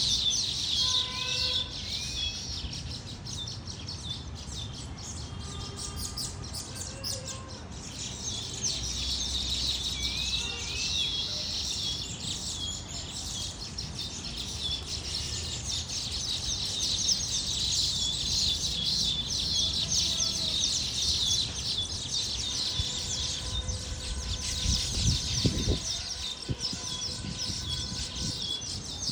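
A flock of small birds chirping and chattering nonstop, many high calls overlapping, with a few louder rising calls standing out. A brief low rumble sounds near the end.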